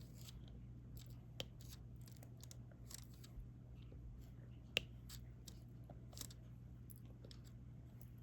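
Faint, irregular small clicks and taps of a diamond-painting stylus picking up resin drills and pressing them onto the adhesive canvas, with one sharper tap about five seconds in, over a low steady hum.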